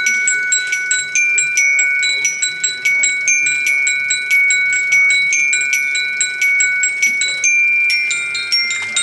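Glockenspiel struck with mallets, playing a tune: a quick run of bright, ringing metal notes, about three or four a second, each note ringing on under the next.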